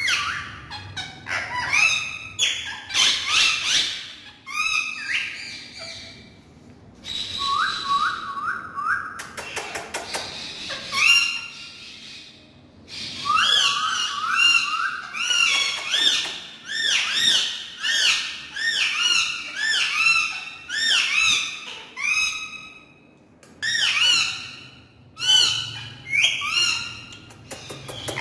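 Green pet parrots calling: quick runs of short, pitched squawks and whistles that rise and fall, several a second, broken by brief pauses.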